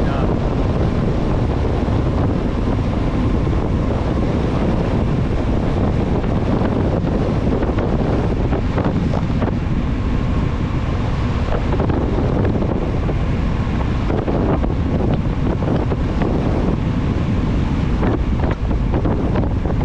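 Steady, loud wind rush buffeting the microphone from the airflow of a bicycle descending a paved mountain road at speed.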